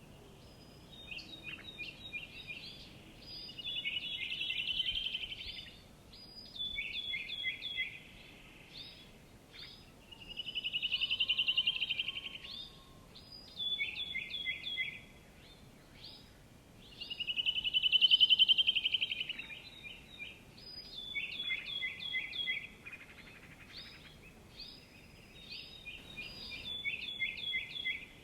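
A songbird singing, repeating a phrase of short, quickly falling notes that runs into a fast trill. The phrase comes about every seven seconds, loudest near the middle.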